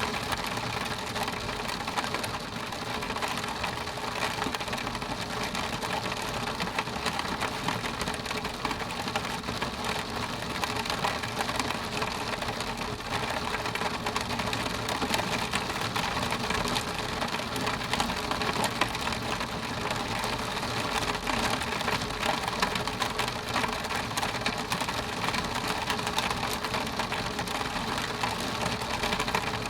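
Rain pattering steadily on a window pane, a dense, even stream of fine drop ticks on the glass.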